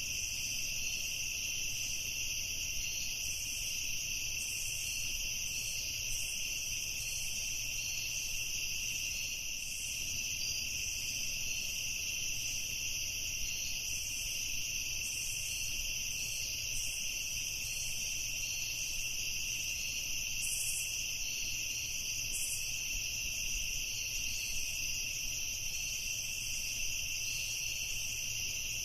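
A steady evening chorus of crickets trilling at several pitches at once, unbroken throughout, over a faint low rumble.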